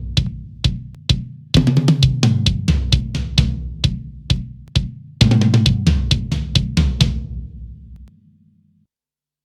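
Yamaha Recording Custom drums, close-miked with a dynamic tom microphone and recorded raw: rapid runs of stick strikes on the toms, each drum ringing with a low pitched tone. The playing stops about seven seconds in, and the ring dies away into silence about a second later.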